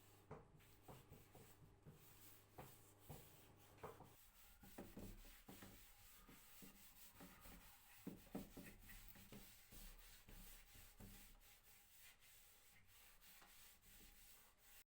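Faint rubbing and scraping strokes on wood, irregular and broken by small knocks. The sound cuts off suddenly near the end.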